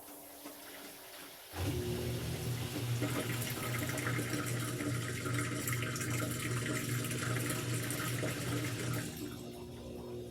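Washing machine taking in water: a steady hum starts abruptly about 1.5 s in, with a rush of water that grows louder about 3 s in and eases off near the end.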